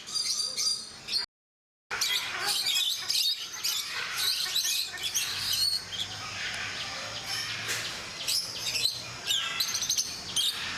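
Many birds calling at once, a dense mix of high chirps and squawks. The sound cuts out completely for about half a second, about a second in.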